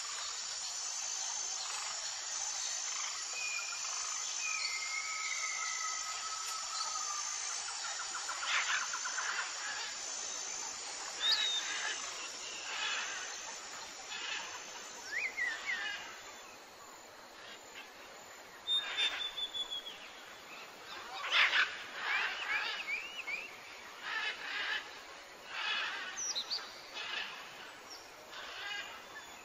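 Birds chirping and calling over a steady outdoor background hiss: short chirps and whistled glides, coming more thickly in the second half.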